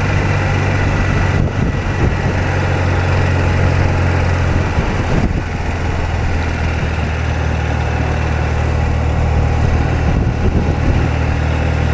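BMW R80RT's air-cooled flat-twin engine running steadily, with its note changing about five seconds in.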